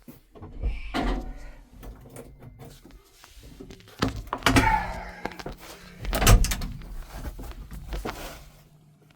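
A series of knocks and clunks, like a door or panel being handled, with the loudest about six seconds in, over a faint low rumble.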